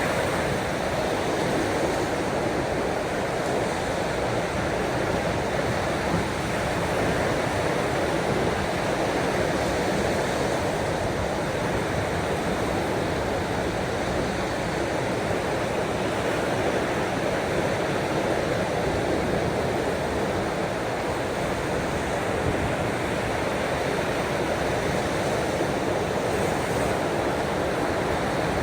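Ocean waves making an even, unbroken wash of water noise, with no distinct breaks or swells.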